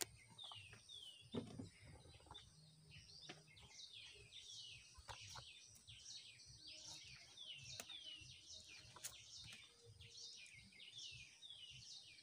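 Faint birdsong: short falling chirps repeated two or three times a second. A few soft knocks are heard as a wooden beehive box is lifted, set down and its lid opened.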